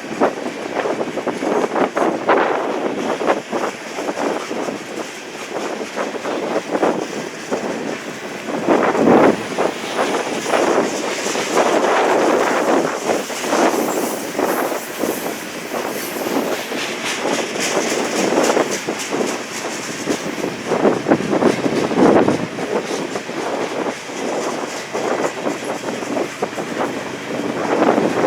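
A train's cars rolling past, with continuous wheel-on-rail rumble and clatter and some high-pitched wheel squeal, mixed with wind buffeting the microphone.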